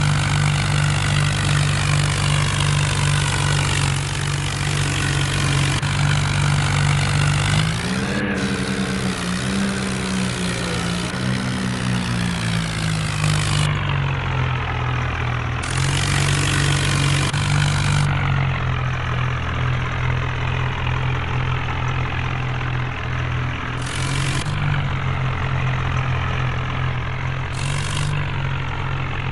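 Tractor's diesel engine running steadily, revving up about eight seconds in and easing back down a few seconds later.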